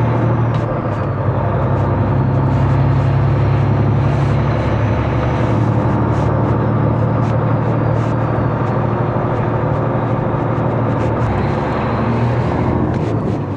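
Semi-truck engine running steadily, heard from inside the cab while driving slowly, with scattered light clicks.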